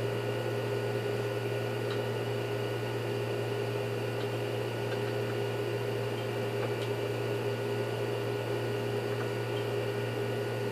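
Steady hum of a running electric motor, even and unchanging, with a few faint ticks.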